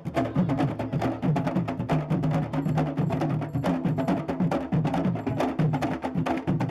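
Candombe drum ensemble playing: dense, rapid clicks of sticks on the wooden drum shells over deeper pitched drum tones, in a steady driving rhythm.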